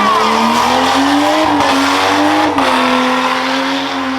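Rough truck's engine running hard at high revs under full throttle, its note climbing slowly for the first couple of seconds, dropping a little about two and a half seconds in, then holding steady.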